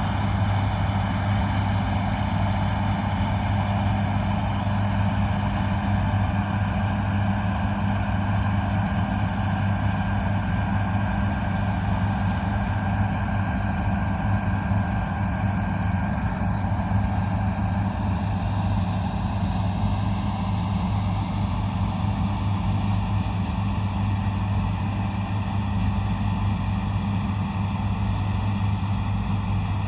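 Big John Deere farm diesel engine running steadily under constant load, a deep even hum with faint whining tones above it that shift slightly about two-thirds of the way through.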